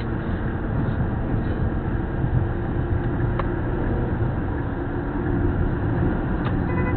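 Steady road and engine noise from a moving vehicle, with a faint click about three and a half seconds in and another near the end.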